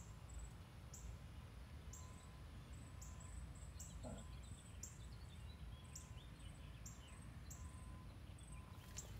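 Quiet outdoor background with a low rumble, over which a bird gives a faint, high, short chirp about once a second.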